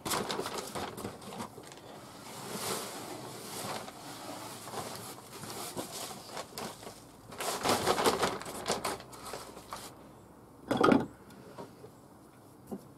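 Plastic bag rustling and crinkling as it is handled, louder in two spells, with a single knock a couple of seconds before the end.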